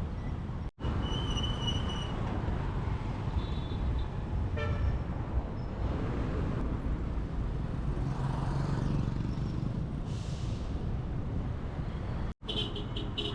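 City street traffic: the steady noise of vehicles passing, with a short horn toot partway through. The sound drops out suddenly twice, about a second in and near the end.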